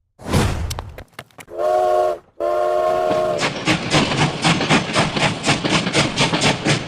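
A train horn sounds twice, the second blast longer, followed by the fast, even clickety-clack of a train's wheels running over rail joints.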